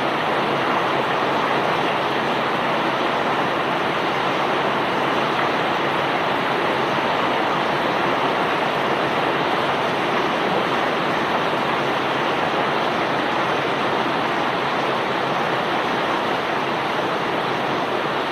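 Self-unloading barge discharging bulk rock and ore: a steady, even rushing noise of cargo pouring off the unloading conveyor together with its machinery.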